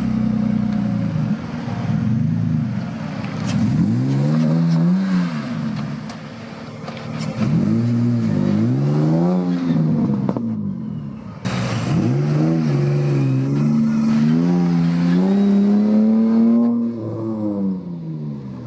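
A car engine revving, its pitch rising and falling several times in quick blips, with a longer held rev near the end that then drops away.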